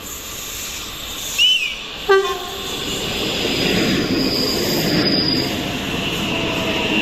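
A passing train sounds a brief horn blast about two seconds in, just after a short high chirp. Its rumble then grows steadily louder as it approaches, with a thin high wheel squeal over it.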